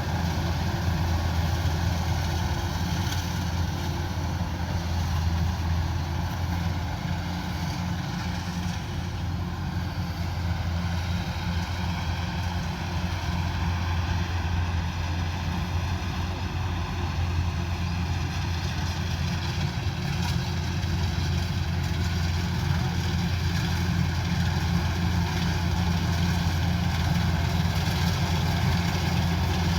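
Combine harvester's diesel engine running steadily at a constant speed, with a deep even hum.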